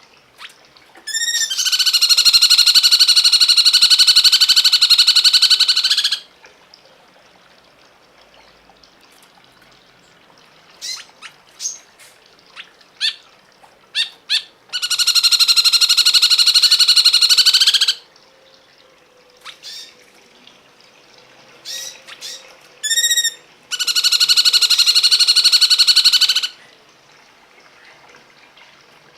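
Songbird singing: three long, loud, rapidly pulsed buzzy trills, each lasting several seconds, with short sharp chirps in the gaps between them.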